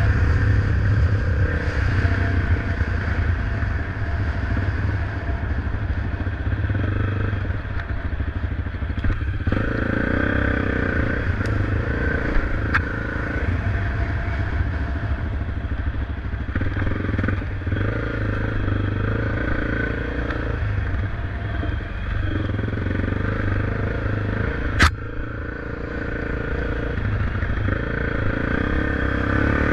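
Motorcycle engine running steadily while being ridden, with a single sharp click near the end.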